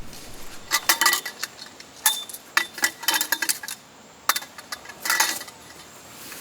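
Utensils and dishes clinking and clattering as they are handled, in several short bursts with a brief ring after some of the knocks.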